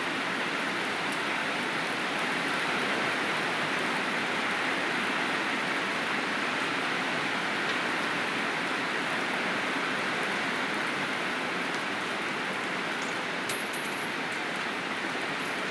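Heavy typhoon rain falling with a steady, even hiss, with a faint click about 13.5 seconds in.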